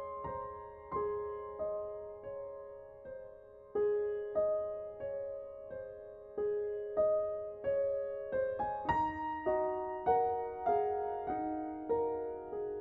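Background music: slow solo piano, single notes struck and left to fade, moving to a lower chord about nine seconds in.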